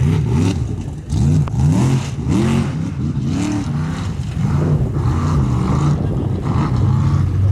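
Formula Offroad competition truck's engine revving hard in repeated surges, the pitch rising and falling as the throttle is blipped on and off.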